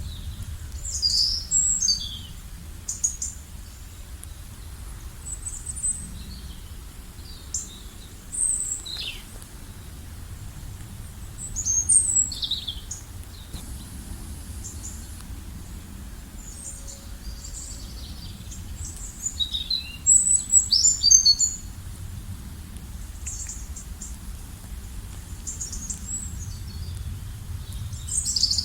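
Several small birds chirping and trilling in scattered high-pitched bursts, busiest around twelve seconds and twenty seconds in, over a steady low background rumble.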